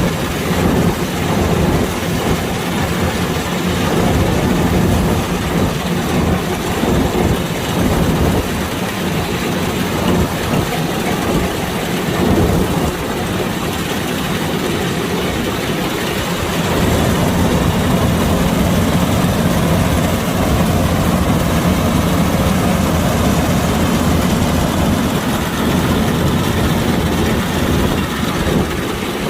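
Kubota DC-105X rice combine harvester's diesel engine running steadily with a continuous mechanical drone, a little louder from just past halfway.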